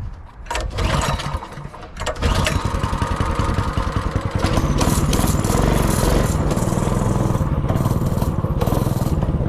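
A mini bike's 196cc single-cylinder four-stroke engine starting: a brief sputter about half a second in, then it catches about two seconds in and keeps running steadily.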